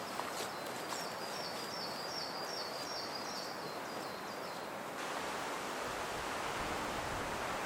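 A small songbird singing a high two-note phrase repeated rapidly for about four seconds over a steady outdoor hiss. About five seconds in, the background changes abruptly to a fuller, lower rushing noise.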